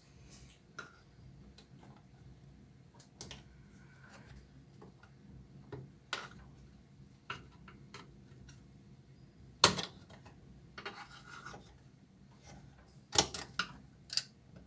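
Tools and washing-machine parts being handled: scattered clicks and knocks with a brief scrape. There is a sharp knock about ten seconds in and a few more near the end.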